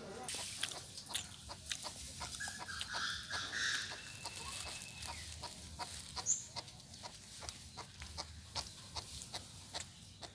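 Chinese francolin making soft, irregular clucks and ticks, with a thin drawn-out note and a brief high chirp partway through.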